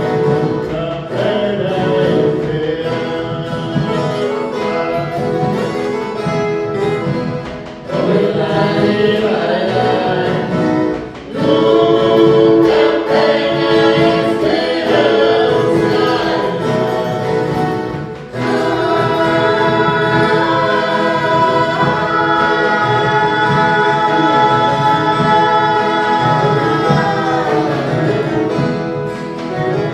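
A choir singing over an ensemble of viola caipira (Brazilian ten-string guitar). The phrases break briefly about 8, 11 and 18 seconds in, and the voices then hold long notes for most of the rest.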